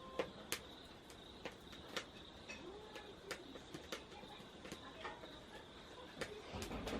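Wood fire crackling in a Solo Stove Campfire fire pit: irregular sharp snaps and pops, a few louder ones, over a faint steady high tone.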